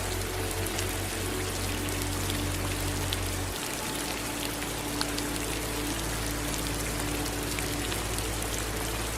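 Steady rain falling, with many individual drops ticking through it.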